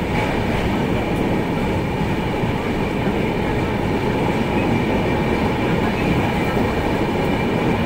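Passenger train running, a steady loud rumble of the wheels on the rails heard from inside the coach, with a faint high whine held throughout.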